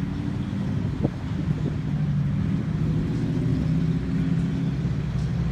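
A car engine running at a steady low pitch, getting slightly louder over the first few seconds.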